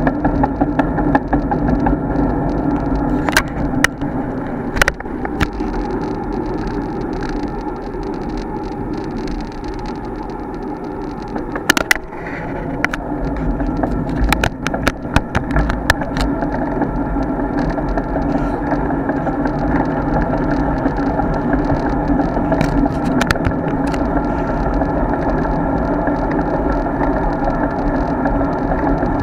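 Steady rumble and rush of a road bike being ridden, picked up by a bike-mounted action camera, with sharp clicks and knocks from bumps and rattles scattered through it.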